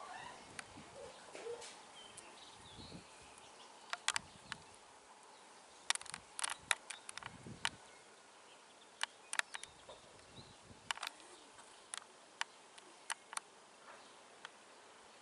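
Bees buzzing faintly around blossoming apple trees, under scattered sharp clicks and ticks, several in quick clusters.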